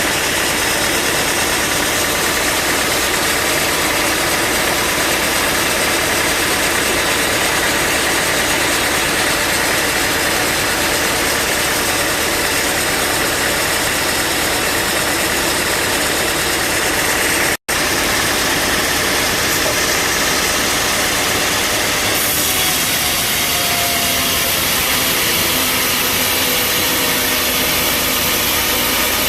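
Bandsaw sawmill running with a loud, steady machinery noise, broken by a split-second gap a little past halfway.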